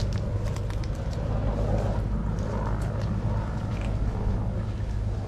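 An engine running steadily with a low, even drone, with a few faint clicks and distant voices over it.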